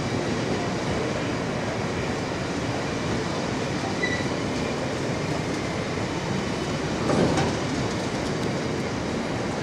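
Bogie coal hopper wagons of a freight train rolling past, with a steady noise of steel wheels on rail and a brief louder clatter about seven seconds in.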